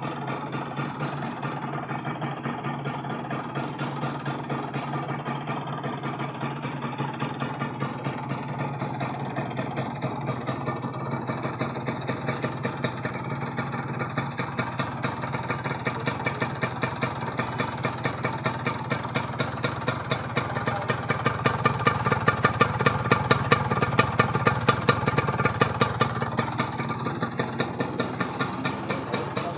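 Kawasaki GTO 125 motorcycle's single-cylinder two-stroke engine idling with an even, rapid beat. It gets louder for a few seconds past the middle, then eases back.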